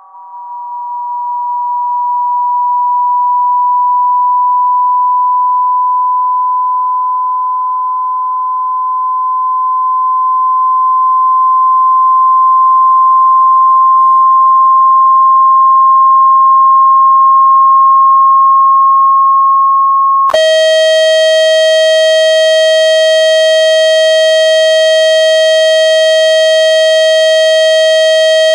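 Electronic tones for ejecting water from a phone speaker: a pure tone near 1 kHz rises slowly in pitch, swelling and dipping in loudness. About two-thirds of the way through it switches abruptly to a harsh buzzing tone with many overtones.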